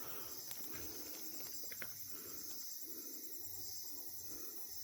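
Insects trilling steadily in a high pitch in the forest, faint, with a fast pulsing chirr running through it.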